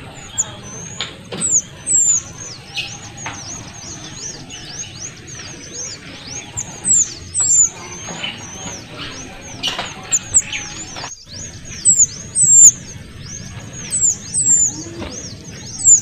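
Kuniran (mantenan kecil), a small songbird, calling busily with a rapid stream of high, thin downslurred chirps. Louder, sharper chirps stand out, mostly in pairs, every few seconds.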